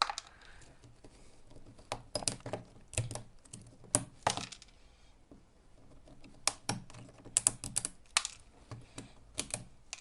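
Metal hand tool prying spot-welded nickel strip off the cells of an e-bike battery pack: irregular sharp clicks and scrapes in clusters, easing off briefly midway.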